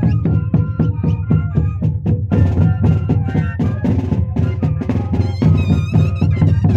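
Moseñada band music: moseño cane flutes playing a sustained melody over a steady, quick drum beat. The melody wavers higher and more busily from about five seconds in.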